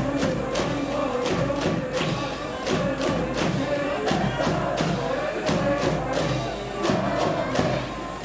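Cheering-section brass band playing a fight song over a steady drum beat, with the crowd chanting along.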